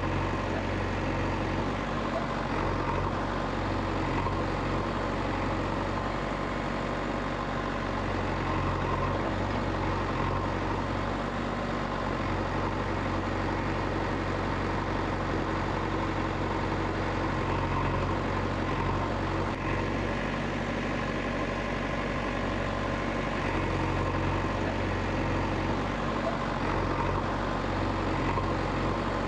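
An engine idling steadily in a low, even hum, with no revving.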